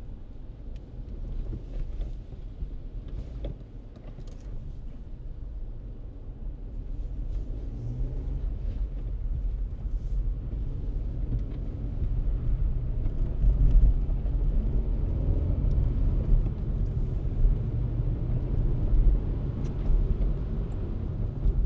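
Car driving, a steady low rumble of road and engine noise that grows louder about a third of the way in and again past the middle as the car picks up speed, with light scattered clicks over it.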